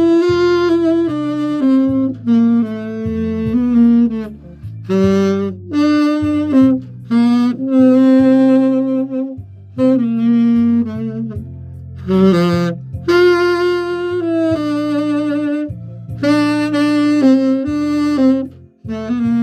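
Saxophone playing a slow melody in phrases, with vibrato on held notes, over a backing track with bass.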